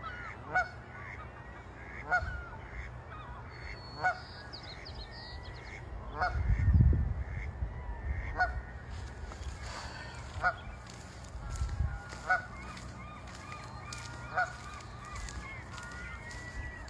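Goose honking in short single calls, one every second or two, with fainter, higher bird chirps joining in the second half. A low rumble rises and fades about six seconds in.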